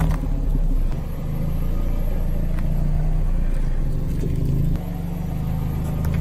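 Car engine running steadily at low speed, a low hum, with a faint click about two and a half seconds in.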